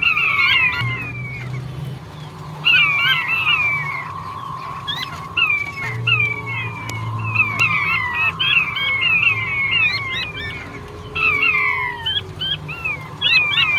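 Male blue-breasted quail (puyuh batu) calling over and over: clusters of short, high, downslurred whistled notes, several overlapping at once.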